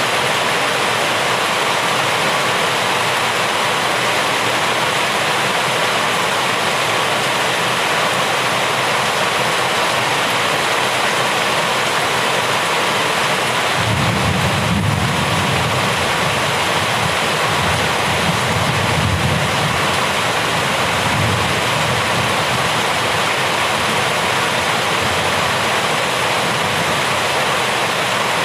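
Steady heavy rainfall. About halfway through, a low rumble of thunder swells for several seconds and fades.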